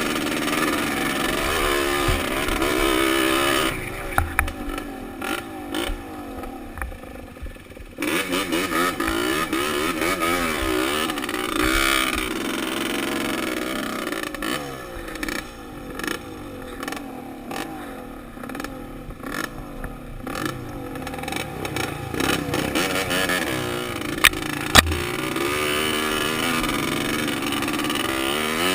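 Dirt bike engine revving up and down as the throttle opens and closes on a trail ride, with a quieter stretch at low revs a few seconds in. Two sharp knocks come near the end.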